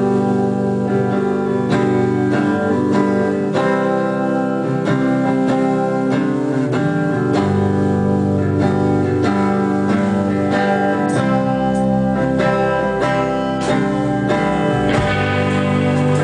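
Live band playing a guitar-led song, starting suddenly with strummed and picked guitar chords.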